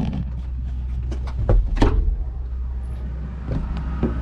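Diesel engine of a Cat excavator idling steadily, with a few short knocks and clunks over it.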